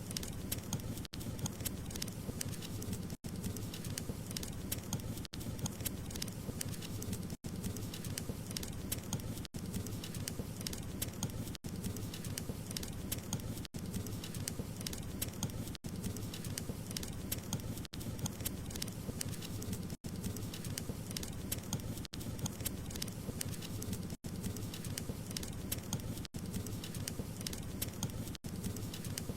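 Wood fire crackling steadily, a dense run of small pops and crackles over a low rumble, broken by a brief dropout about every two seconds.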